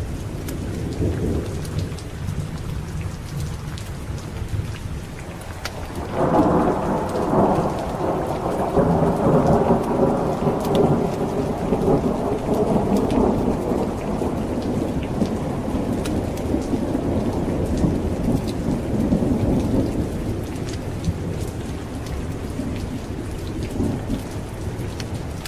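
Steady heavy rain, with a long roll of thunder that breaks suddenly about six seconds in, rumbles on for over ten seconds and slowly dies away.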